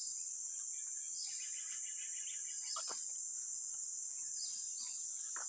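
Insects chirring in a steady high-pitched drone, with a couple of faint brief falling sweeps near the middle and the end.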